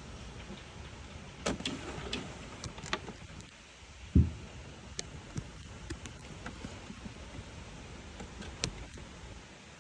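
Steady gusty wind noise with scattered clicks and knocks, and one loud low thump about four seconds in.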